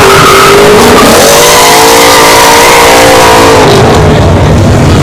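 A car engine revving hard and held at high revs during a burnout, over a loud steady hiss; about three and a half seconds in the revs drop away to a low rumble.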